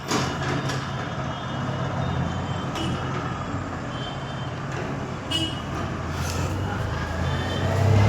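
Mahindra Maxximo mini truck's diesel engine running steadily, its low drone growing louder near the end.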